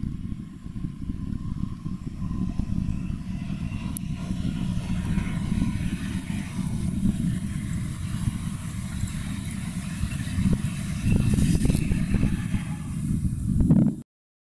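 RegioJet multiple-unit passenger train passing close by: a steady low rumble of wheels on the rails, growing louder with a few sharp knocks of wheels on the track about ten seconds in. It cuts off suddenly just before the end.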